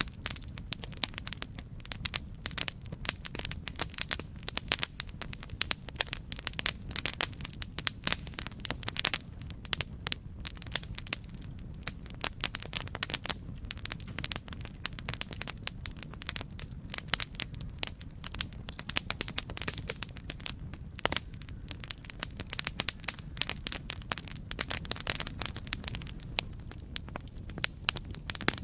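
Campfire burning, wood crackling with many sharp pops and snaps over a steady low rumble of flame.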